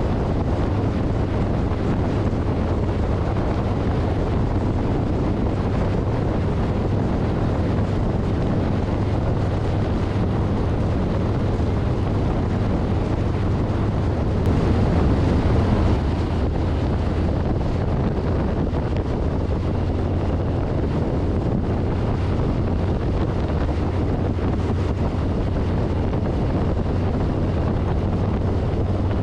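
2024 Harley-Davidson Street Bob's Milwaukee-Eight 114 V-twin running steadily at cruising speed, a low rumble under heavy wind noise on the handlebar-mounted microphone. It gets slightly louder about halfway through.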